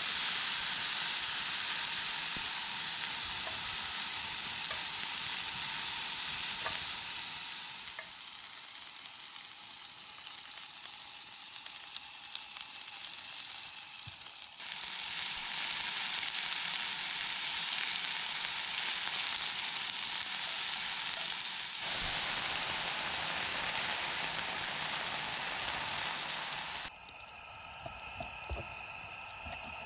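Food sizzling in a hot frying pan: a steady hiss that changes level abruptly a few times and turns quieter near the end, with a few small clicks.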